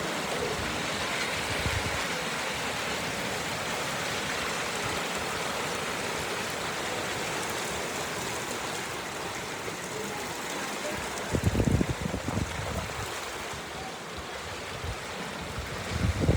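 Steady rain falling, an even hiss, with gusts of wind buffeting the microphone about eleven seconds in.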